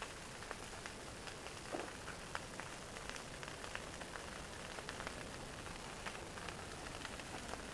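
Large bonfire burning with a steady hiss and frequent sharp crackles and pops.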